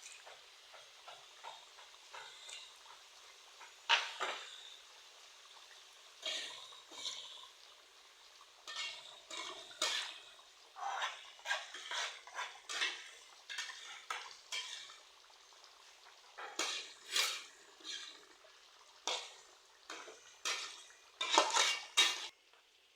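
Kitchen utensils clinking and scraping against dishes and pans in an irregular run of knocks, loudest about four seconds in and again near the end.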